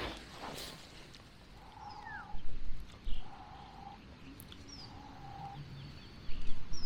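Wild birds calling: one repeats a steady, mid-pitched note three times at an even pace, while others give short high chirps. A couple of brief bumps come partway through, and a louder rustling starts near the end.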